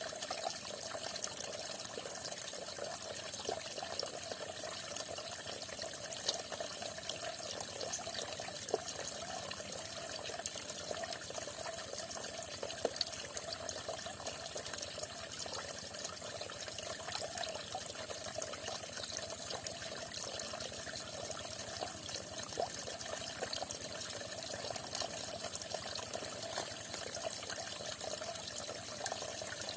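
Small stream of falling water splashing steadily, with a continuous trickling rush and scattered small drips.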